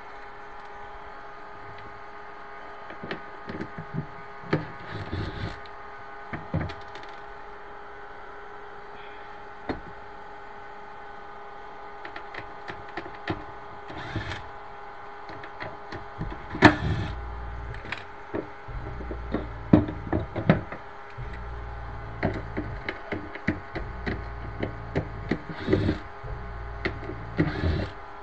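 Irregular knocks, clicks and scrapes of hands and tools working on a wooden kitchen cabinet and the metal rails of its pull-out basket. They are sparse at first and come thick and fast from about halfway, with low thuds among them, over a steady faint hum.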